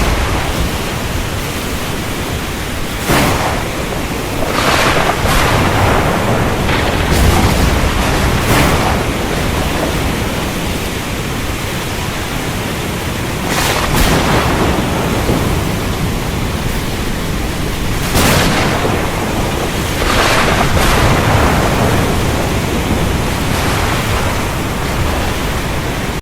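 Storm ambience: a steady rush of heavy rain and wind, with short louder surges every few seconds.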